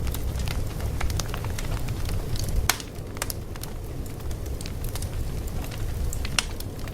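Fire crackling: a steady low rumble of burning with irregular sharp pops and snaps scattered through it, the loudest pop about two and a half seconds in.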